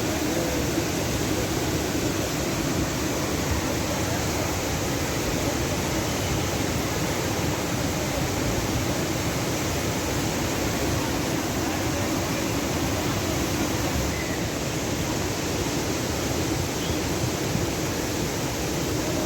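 Floodwater rushing steadily, a dense even noise that does not let up.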